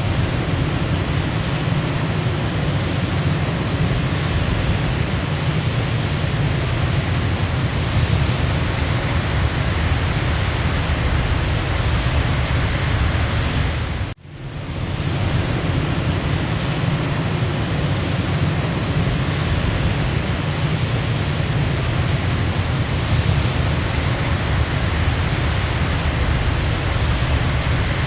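Waterfall: a steady, full rush of falling water with a deep low rumble. About halfway through the sound drops out sharply for a moment and swells back in.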